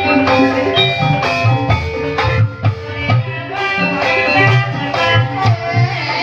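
Javanese gamelan music accompanying an ebeg horse dance: interlocking struck keyed instruments ring out steady notes over a rhythm of kendang hand-drum strokes.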